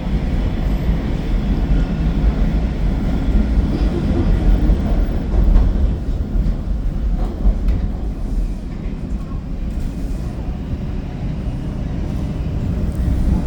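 TTC Line 2 subway train running between stations, heard from inside the passenger car as a steady, loud low rumble of wheels on track.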